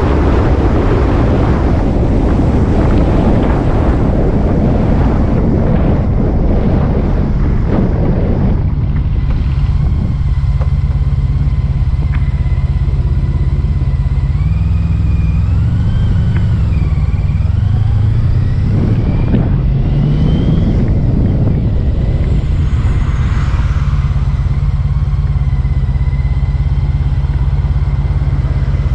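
Motorcycle engine running on the road. For the first several seconds heavy wind noise on the microphone covers it; after that the engine drone is steady, with its pitch rising and falling a few times in the middle.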